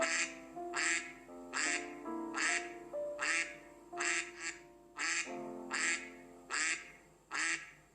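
A duck quacking over and over, a short quack a little more than once a second, over background music.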